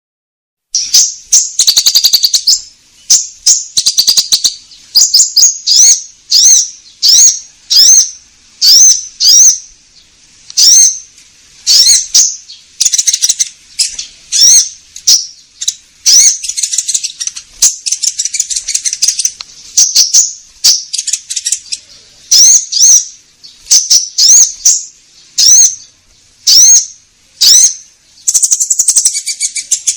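Kolibri ninja sunbird (konin) singing in an excited run of sharp, high chirps, one short phrase roughly every second, with a few longer twittering runs between them.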